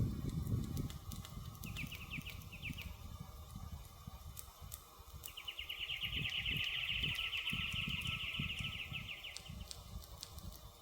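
Wood fire crackling, with scattered sharp pops over a low rumble. A songbird gives a short burst of quick notes about two seconds in, then a long rapid trill from about five seconds until near the end.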